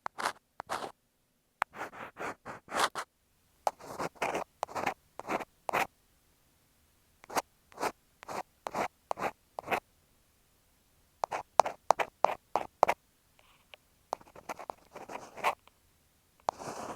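An ear pick scraping and scratching against an earphone microphone in short strokes, several to the second, in clusters broken by brief pauses.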